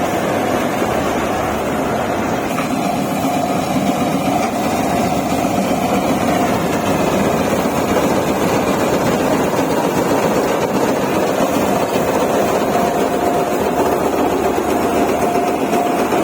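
Diesel engine of heavy farm or earthmoving machinery running steadily, with a faint steady whine over the engine noise.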